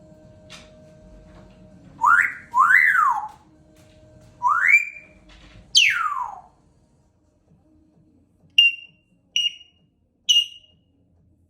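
African grey parrot whistling: a run of gliding whistles, some rising and one rising then falling, then a long whistle sweeping down from very high. Three short high chirps follow near the end.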